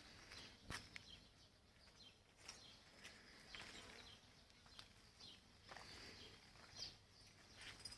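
Faint outdoor quiet with scattered short bird chirps and a few soft clicks.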